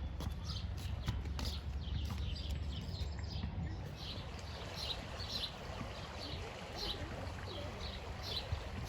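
A bird chirping over and over in short, evenly spaced chirps, about two a second, over a steady low rumble, with a few sharp clicks in the first few seconds.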